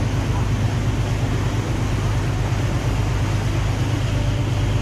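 Boat engine running steadily, a constant low hum with a fast, even pulse.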